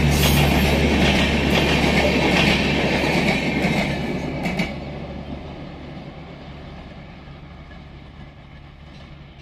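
Passenger train coaches rolling past on the track, wheels rumbling and clacking over the rails. The noise fades steadily from about four seconds in as the end of the train draws away.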